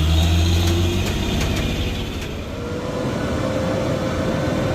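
Heavy truck's diesel engine running under load on a steep climb. A deep drone in the first second gives way to a rougher, noisier running, with a few sharp clicks early on and a thin steady whine from about halfway.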